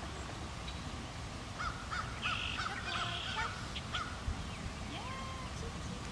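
Wild birds calling: a quick run of short repeated notes about three a second, two harsh raspy calls in the middle, and a single rising whistled note near the end, over a steady low background noise.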